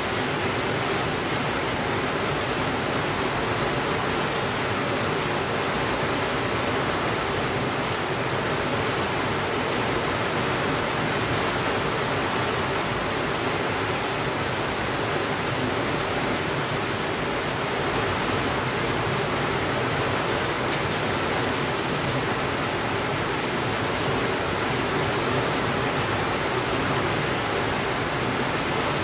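Steady, even rainfall hiss with no changes in level.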